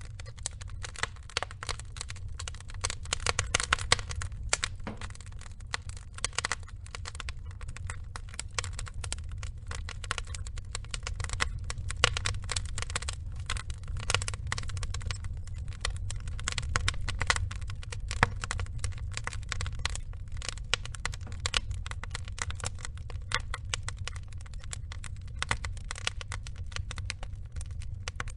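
Burning wood logs crackling, with many small irregular pops and snaps over a steady low rumble.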